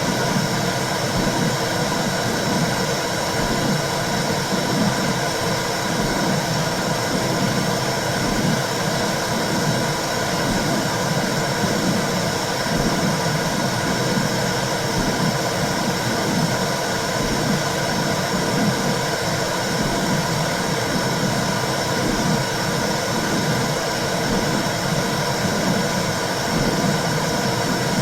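Womb sound for calming babies: a steady whooshing noise with low swells that come and go.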